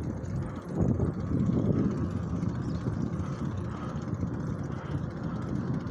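Low, steady wind rumble on a phone microphone carried by a moving bicycle rider, with some tyre and trail noise beneath it.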